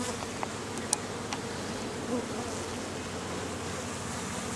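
Swarm of honeybees buzzing steadily around an open hive during an inspection, a constant low hum, with a few light clicks in the first second and a half.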